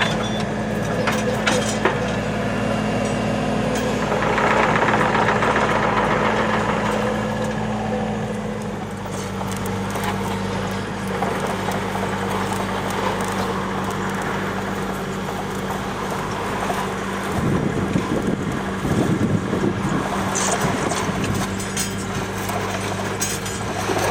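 TAKE JOB TB 290 small excavator's engine running steadily, its pitch stepping down slightly about a third of the way in. Bouts of rattling and clattering from the working machine come over it twice.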